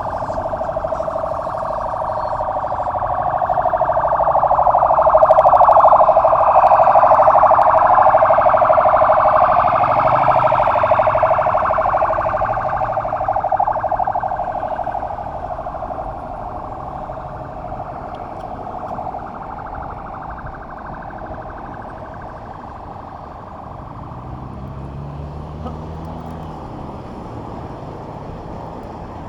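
Emergency vehicle siren wailing, with its rising and falling tones crossing, getting louder over the first few seconds, peaking and then fading away over the next ten seconds or so over low traffic noise.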